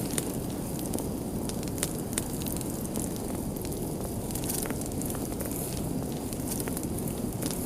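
Crackling fire: irregular sharp pops and snaps over a steady low rumble of burning.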